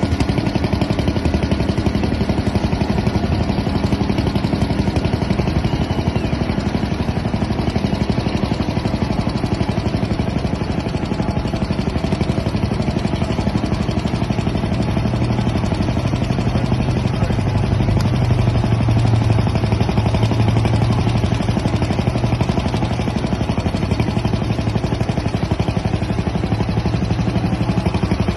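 Engine running steadily at a fast even beat, its low note a little stronger for several seconds past the middle.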